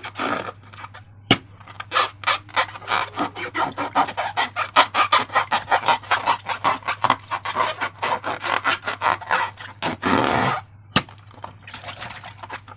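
Slime being squeezed and worked by hand: a quick run of wet squelches, about five a second, ending in a longer squelch and a sharp click. A steady low hum runs underneath.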